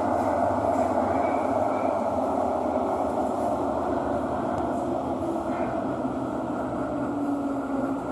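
Thomson–East Coast Line metro train running in a tunnel, heard from inside the carriage: a steady rumble and hiss with a faint motor whine, slowly getting quieter.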